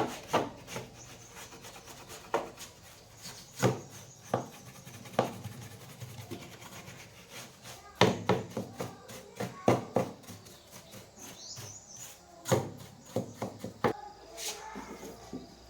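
Irregular knocks and clicks with rubbing between them, like objects being handled and set down during hands-on repair work.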